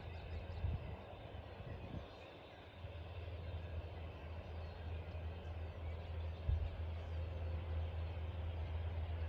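Outdoor ambience: a steady low rumble that dips about two seconds in and comes back, with a few faint, high bird chirps now and then.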